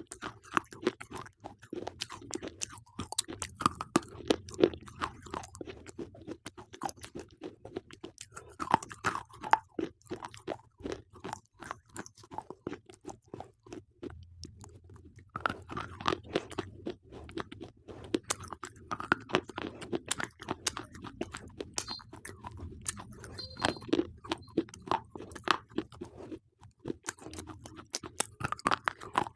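Slate pencils being bitten and chewed: a dense run of dry, sharp crunches and cracks, with a short lull a little before halfway.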